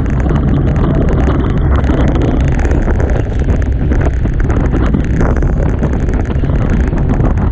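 Heavy wind buffeting the microphone over the rush of water along a Hobie Tiger catamaran's hulls as it sails at speed in strong wind.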